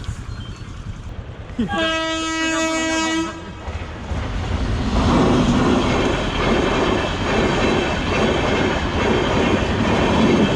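A train horn sounds once, a steady note held for about a second and a half, then a train passes a level crossing with the loud rumble and clatter of its wheels on the rails.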